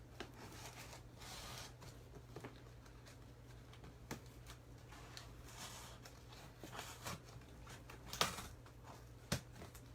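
A heavily taped cardboard box being cut and worked open: faint scraping and rustling of tape and cardboard, with a few sharp clicks.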